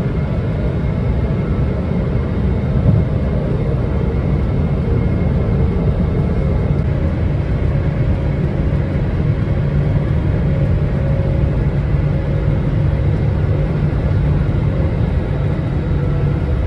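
Steady, low vehicle rumble with no change in pitch or level.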